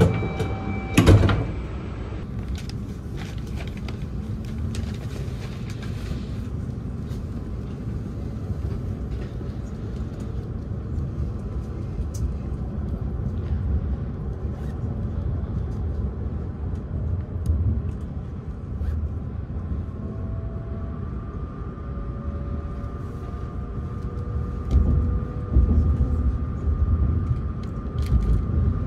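Running noise inside a Hayabusa Shinkansen car as it pulls out of the station: a steady low rumble with light ticks, after a sharp knock about a second in. A faint whine comes in past the middle, and a few louder thumps come near the end.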